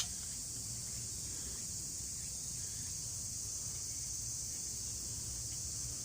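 Steady chorus of insects, likely crickets, as a continuous high-pitched hiss over a low outdoor rumble, with one sharp click at the very start.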